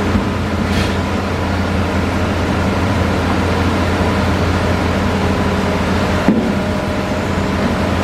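Hitachi Zaxis excavator's diesel engine running steadily under work, with a single sharp knock about six seconds in.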